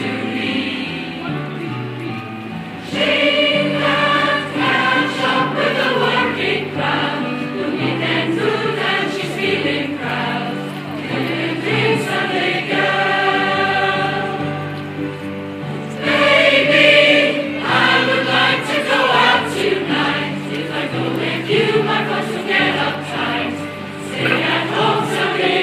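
A choir of mixed voices singing together in harmony, with phrases rising and falling in loudness.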